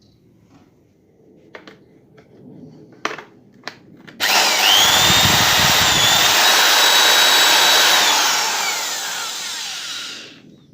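Hitachi D13 electric drill switched on after a few handling clicks: its motor whine holds steady for about four seconds, then falls in pitch and dies away over about two seconds as the trigger is released and the motor coasts to a stop.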